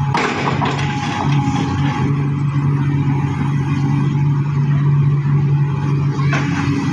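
Heavy diesel engine of a vibro-hammer excavator running steadily, with a brief clatter right at the start.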